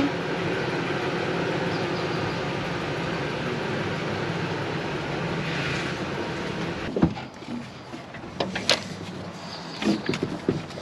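A vehicle engine running steadily, cutting off suddenly about seven seconds in, followed by a few scattered knocks and clicks.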